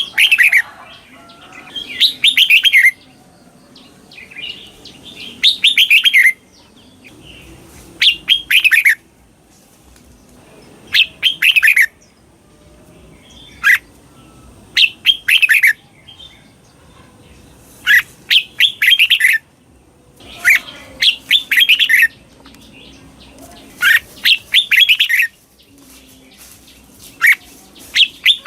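Red-whiskered bulbul singing its 'doubled' song: short bright phrases of quick falling notes, repeated about every two to three seconds.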